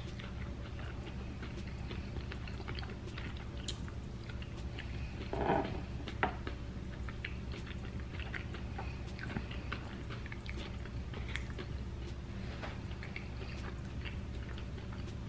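A person chewing cheese-covered tater tots close to the microphone, with small wet mouth clicks over a steady low hum. There is one short, louder mouth sound about five seconds in.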